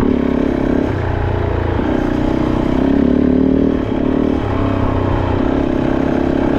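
Kove 450 Rally's single-cylinder engine running at low speed on and off the throttle, its pitch rising and falling every second or so.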